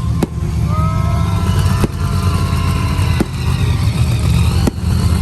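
Monster truck engine running loud, a heavy low rumble, with four sharp pops spaced about a second and a half apart.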